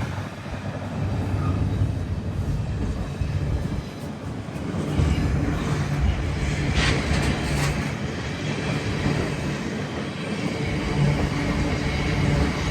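Train running at the platform, a steady low rumble with a few short clanks about seven seconds in.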